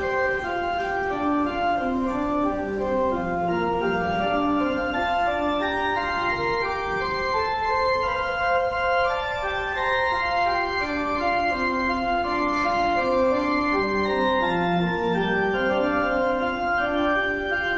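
Church organ playing a hymn in held, sustained chords that move from one chord to the next, with no singing.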